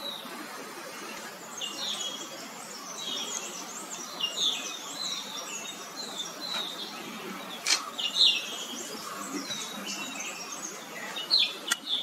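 Several small birds chirping and calling: quick, high, overlapping chirps and short trills, with a few sharp clicks, one about two-thirds of the way through and two near the end.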